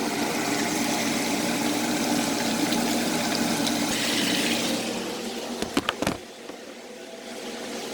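Steady hiss of food cooking on the stove. A cluster of sharp knocks comes a little before six seconds in, and then the sound drops quieter.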